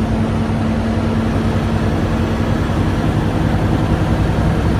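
Cab interior of a Freightliner Inspiration semi truck at highway speed: steady engine drone and road noise, with a low tone that fades out about three and a half seconds in.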